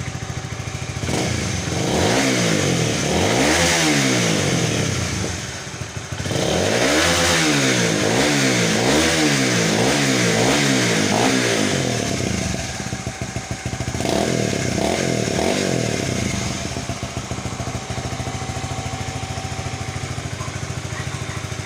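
Honda RS150's single-cylinder four-stroke engine running on a freshly fitted spark plug, revved by throttle blips: one slower rise and fall, then a run of quick revs about once a second, a couple more, then it settles back to a steady idle near the end.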